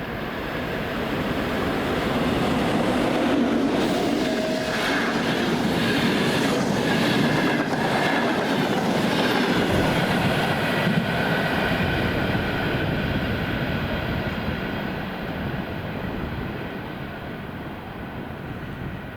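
Passenger coaches of a train running through the station at speed, wheels clattering rhythmically over the rail joints, with a thin squeal from the wheels. The sound builds in the first few seconds, holds, then fades away toward the end.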